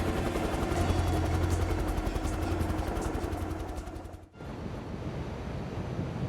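Helicopter running, its rotor beating in a fast steady pulse over a low hum; a little past four seconds in it cuts off abruptly, giving way to steady rushing wind noise.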